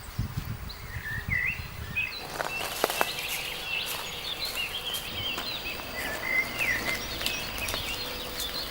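Birds chirping, many short rising and falling calls, which grow busier about two seconds in along with sharp clicks and crackles. Low thuds sound in the first two seconds.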